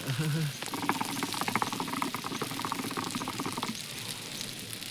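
Sizzling and crackling of meat roasting over an open fire: a dense run of rapid pops and spits from about half a second in until nearly four seconds, easing to a softer hiss.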